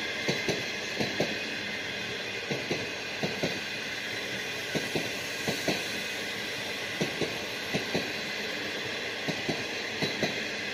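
Passenger coaches rolling past at restricted speed, their wheels clacking over the rail joints in quick pairs and small groups about every second, over a steady rumble with a high whine.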